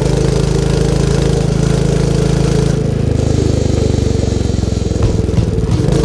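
Royal Enfield Meteor 350's single-cylinder engine running under way with a steady exhaust note; the engine note drops in pitch about three seconds in as engine speed falls, then carries on at the lower pitch.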